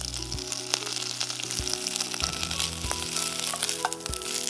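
Fresh curry leaves and garlic cloves frying in hot oil, sizzling and crackling steadily, with a few light clicks as a wooden spatula stirs them in the pan.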